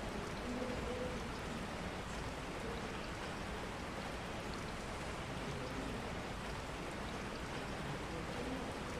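Steady rain, an even hiss of falling drops with no pauses, with a few faint low murmurs beneath it.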